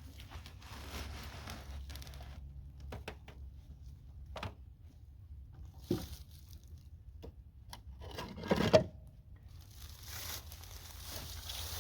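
A pillowcase full of pine shavings and a division board being fitted into a beehive: rustling and crinkling with a few sharp knocks, and a louder burst of knocking about eight and a half seconds in.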